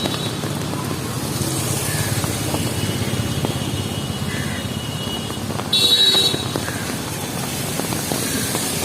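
City street traffic, with vehicle engines running and passing, and one short horn honk about six seconds in.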